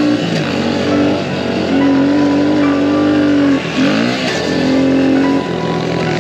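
Small pit bike engine running under load while being ridden, holding a steady pitch, then dropping off and revving back up about four seconds in.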